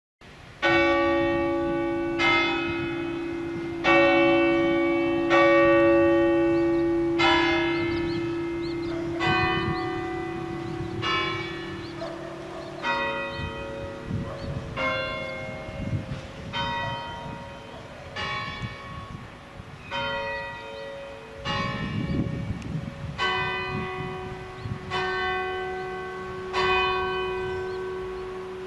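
Church bells struck one at a time, about one stroke every one and a half to two seconds, changing pitch from stroke to stroke like a slow tune. Each note rings on under the next.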